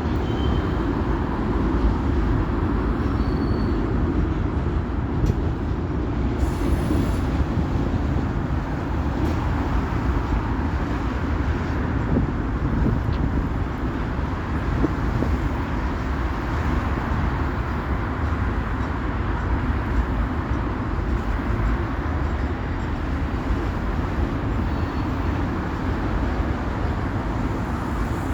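Train running along the tracks: a steady, unbroken noise of wheels on rail, heaviest in the low range.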